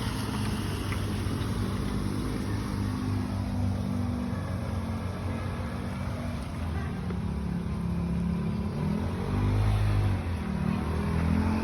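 A motor engine running steadily, its pitch dipping and rising again about nine seconds in as it gets a little louder.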